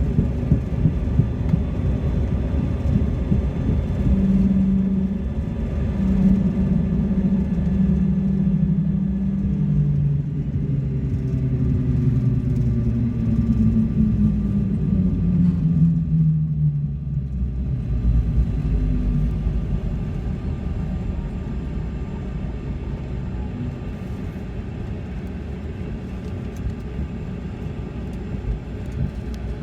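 Cabin noise of a CRJ-200 regional jet rolling out after landing: a steady wheel-and-airframe rumble under the whine of the rear-mounted jet engines. The engine tones fall in pitch and fade a little over halfway through as the engines spool down. The overall noise then eases as the jet slows.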